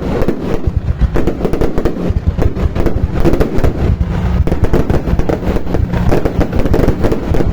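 Fireworks going off: a dense, continuous run of sharp cracks and bangs, many per second.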